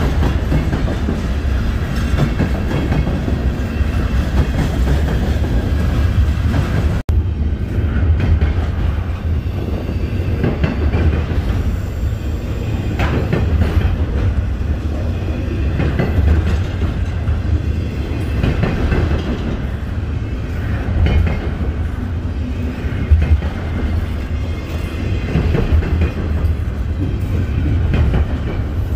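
Freight cars rolling past: covered grain hoppers rumbling and clacking over the rails, then, after a cut about seven seconds in, double-stack container well cars rumbling by, with scattered clicks of wheels over rail joints.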